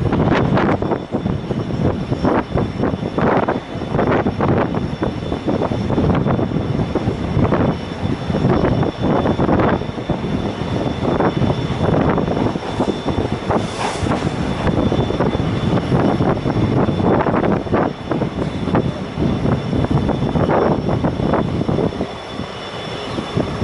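Passenger train running at speed, heard from on board: a loud, continuous rush of wind and running noise with irregular clattering and knocking from the wheels and coach.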